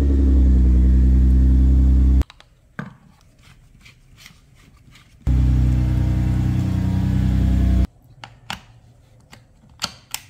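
A Nissan GT-R R35's twin-turbo V6 running at a low, steady pitch in two stretches of about two and a half seconds each, both starting and stopping abruptly. Scattered short clicks and ticks come between and after them.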